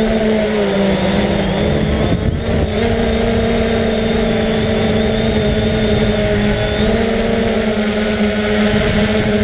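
Quadcopter drone's electric motors and propellers whining steadily in flight, the pitch dipping briefly about a second and two seconds in as the motors adjust, over heavy wind buffeting on the microphone.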